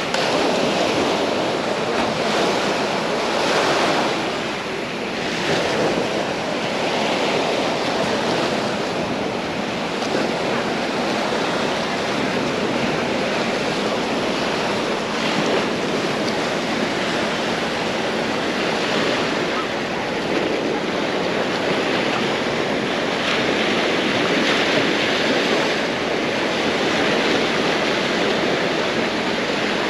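Small waves breaking and washing up a sandy shoreline, a steady surging wash that swells and eases every few seconds, with some wind noise on the microphone.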